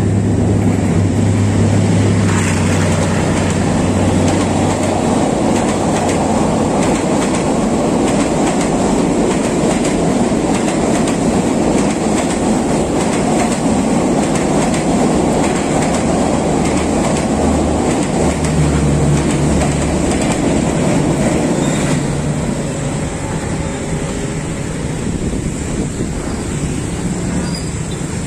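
Train passing along the track below, its cars rolling steadily on the rails, with a low hum under it in the first few seconds. The noise eases off in the last few seconds as the train moves away.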